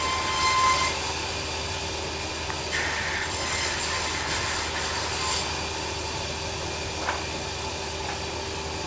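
Band sawmill running with a steady hum, its blade cutting through timber in two spells: during the first second and again from about three to five and a half seconds in.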